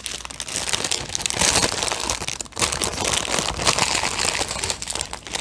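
Small plastic bags of diamond painting drills crinkling as they are handled, a dense continuous crackle.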